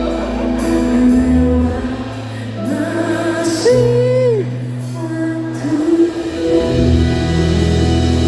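Live pop band playing with a lead vocal: sustained chords over a bass line, with a held melodic note that bends up and down about halfway through.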